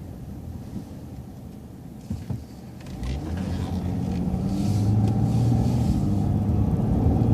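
Transit bus engine running low and quiet, then from about three seconds in building to a louder, steady drone as the bus pulls away from the stop and accelerates. A couple of light knocks come just before it picks up.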